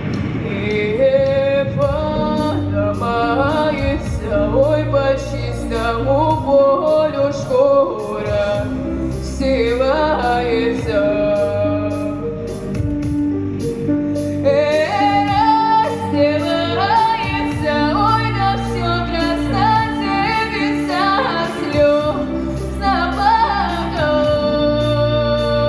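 Female solo voice singing a Russian song in long, ornamented melodic lines over a backing track with bass and a steady beat, holding one long note near the end.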